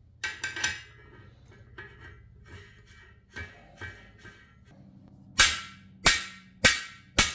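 A hammer drives a cam bearing installer tool's rod to seat a cam bearing in an LS6 engine block. There is metallic clinking of the tool near the start and a few light taps, then four sharp blows about half a second apart in the second half.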